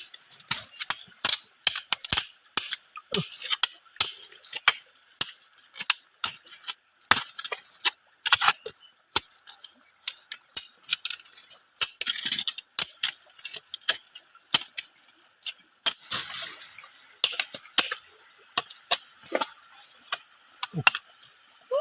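Many sharp, irregular clicks and knocks of hard objects, with short hissing bursts between them.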